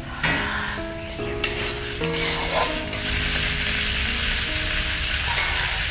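Pork pieces frying in oil in a steel wok, sizzling steadily and growing denser from about halfway. There are a few sharp clinks of the spatula against the wok in the first half.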